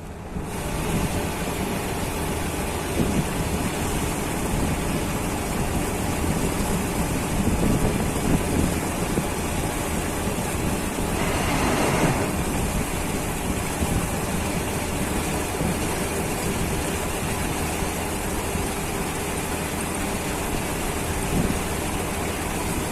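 Farm tractor's diesel engine running steadily under load, swelling louder for a moment about halfway through.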